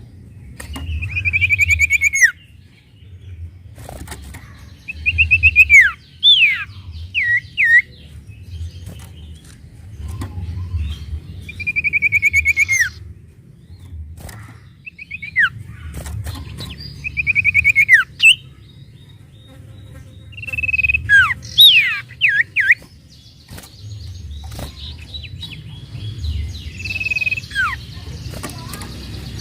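Sirtu bird calling: repeated rapid trills, each a second or two long, often ending in sharp falling whistles, coming every few seconds over a low steady background rumble.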